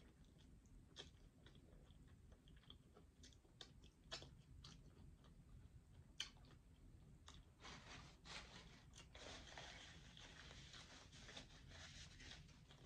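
Close-miked chewing and biting on fried chicken wing: wet mouth clicks and scattered sharp crunches, then a denser run of crackling from about eight seconds in until near the end.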